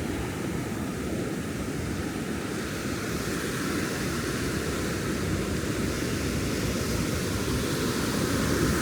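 Ocean surf washing onto the beach in a steady, unbroken rush, swelling a little near the end.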